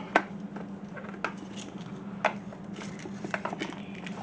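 Scattered light clicks and clinks of hand tools and intake parts being handled while the mass airflow sensor is worked loose. There are single clicks about a second apart, then a quick cluster near the end, over a faint steady hum.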